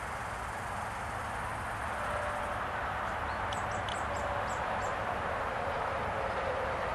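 Steady rushing background noise with a few short, high bird chirps in quick succession near the middle.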